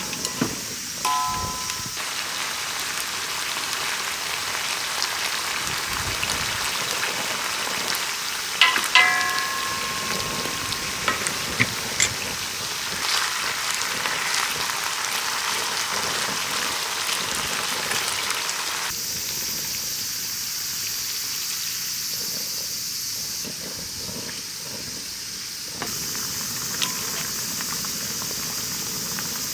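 Steady hiss of heavy rain falling, with a brief ringing clink about nine seconds in.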